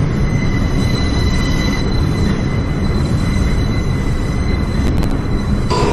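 New York City subway J train heard from inside the car, pulling into its terminal station: a steady loud rumble of wheels on rail, with a thin high whine that fades about two seconds in. A short sharp clatter comes near the end.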